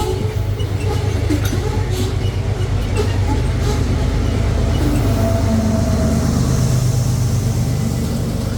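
Loaded freight train passing close by, with its mid-train distributed-power diesel locomotive running steadily as it goes past, over the rumble of the train on the rails.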